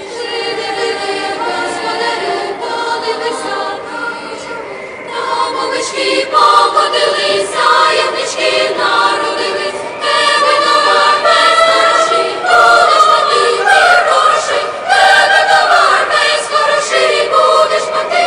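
A choir singing, growing louder about six seconds in and again about ten seconds in.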